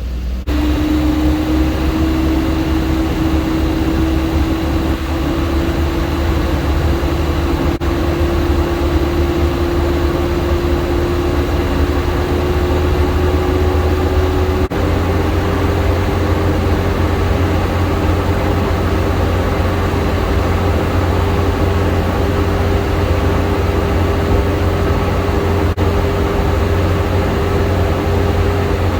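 Duramax diesel engine running at raised idle during a forced regeneration of its exhaust filter, with a steady whine that climbs slowly in pitch over the first half and then holds.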